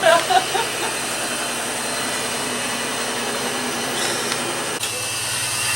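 Top-loading washing machine on its spin cycle, running with a loud, steady mechanical whirring and rattling, like a jackhammer and a missile together. Its sound changes abruptly near the end as the spin begins to wind down.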